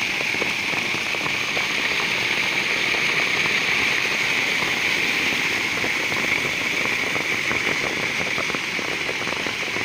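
Heavy rain falling steadily, with many individual drops ticking close by, over the steady rush of floodwater pouring into the pond.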